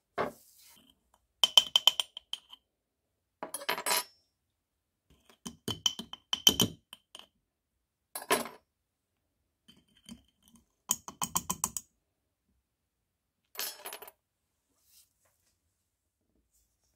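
Small hard parts and tools being handled, clinking and clicking in short separate bursts. Some clinks ring briefly with a high tone, and a quick run of rapid ticks comes about eleven seconds in.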